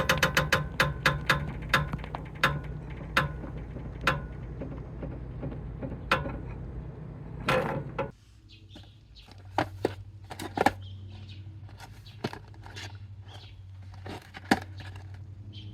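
Sharp clicks and knocks, a quick run of them at the start and then more spaced out, over a steady low hum; about eight seconds in the hum drops away abruptly to a quieter low drone with a few scattered clicks.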